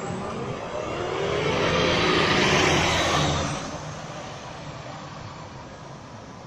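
Tram passing by: a rush of wheel and motor noise that builds, is loudest about two to three seconds in, then fades, with a faint whine shifting in pitch as it goes past.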